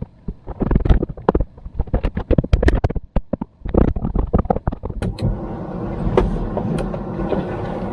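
Quick, irregular scraping strokes of a snow brush and ice scraper on a truck windshield, several a second. About halfway through they give way to a steady engine hum, with a few more strokes over it.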